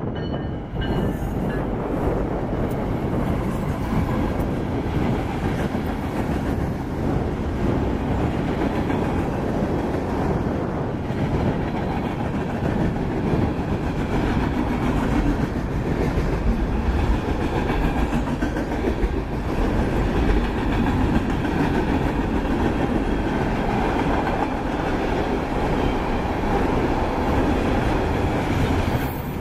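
Union Pacific mixed freight train passing close by: its diesel locomotives (EMD SD70ACe, EMD SD70M, GE AC44CW) go by at the start, then a long string of freight cars rolls past with steady wheel-on-rail noise and clacking.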